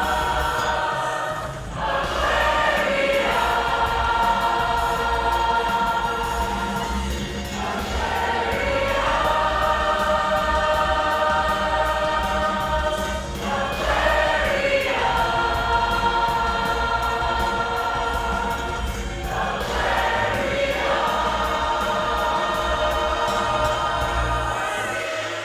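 Women's choir singing sustained chords in several parts, in long phrases with brief breaths between them; the singing ends right at the close.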